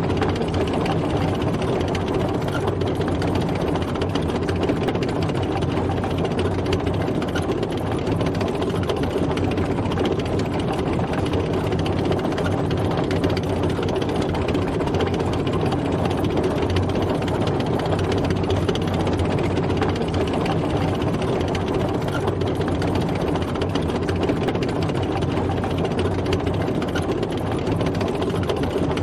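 Military tank driving at a steady pace: its engine running evenly under a constant rapid mechanical rattle.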